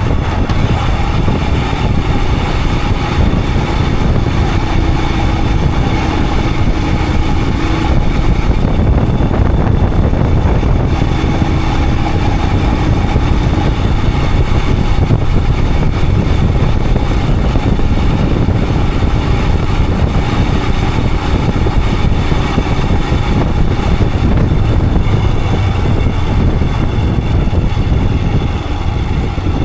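Royal Enfield Himalayan 411's single-cylinder engine running steadily as the motorcycle rides along, with a slight drop in loudness near the end.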